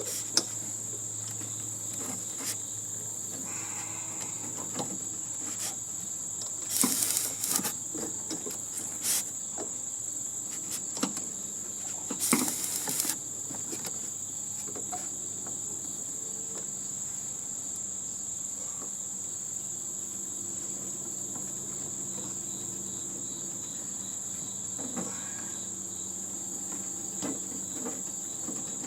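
Steady high-pitched chorus of insects such as crickets, with scattered clicks and knocks and two short, louder rattling bursts from work on a scrap heating and air-conditioning unit, about 7 and 12 seconds in.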